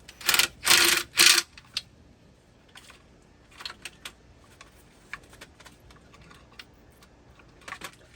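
Metal parts and hand tools clinking and rattling as they are handled, with three louder rattles in the first second and a half, then scattered light clicks.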